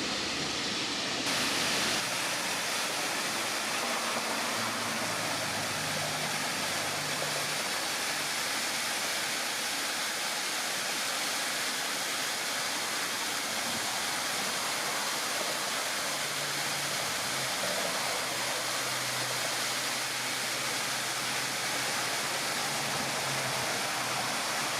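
Small roadside waterfall splashing: a steady, unbroken rush of falling water.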